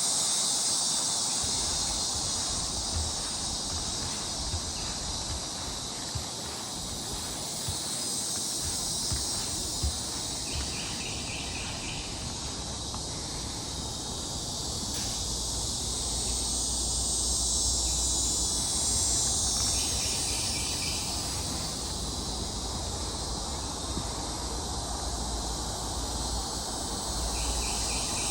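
Steady high-pitched insect chorus, with a short pulsed call breaking in three times, about ten seconds apart.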